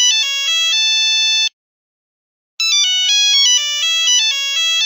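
Mobile phone ringtone ringing: a quick electronic melody of stepping, mostly falling notes that ends on a held chord, stops briefly, then starts over about two and a half seconds in.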